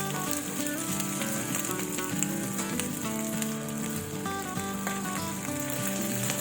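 Stir-fry sizzling in a hot pan, a steady frying hiss, with background music playing over it.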